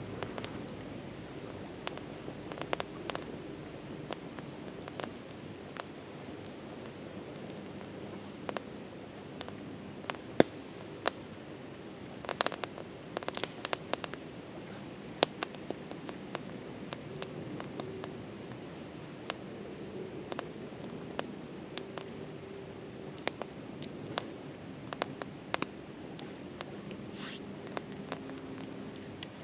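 Campfire crackling, with irregular sharp pops and cracks from the burning wood, a few louder than the rest, over a steady low background noise.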